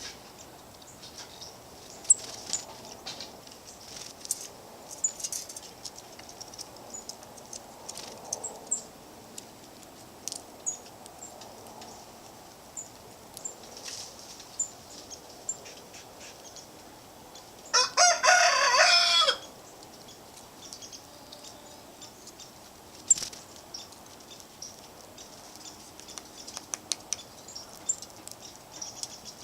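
Birds at a feeder: scattered short, high chirps and small clicks, with one loud, harsh call lasting about a second and a half about two-thirds of the way through.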